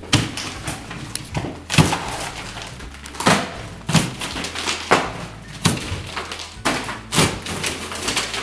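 Repeated heavy blows smashing apart a drywall radiator enclosure: about ten thuds and cracks, roughly one a second, with breaking board between them.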